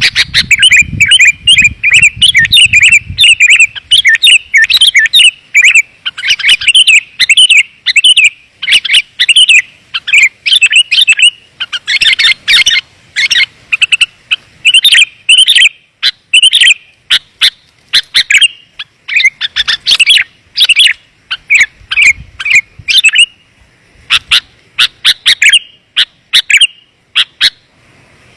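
Sooty-headed bulbul (kutilang) calling in rapid, dense runs of short, clear chirping notes, broken by brief pauses. It is a bulbul lure call meant to draw wild bulbuls in.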